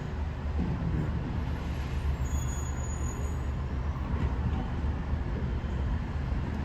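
Steady low vehicle rumble of engine and road noise, with no distinct sudden events.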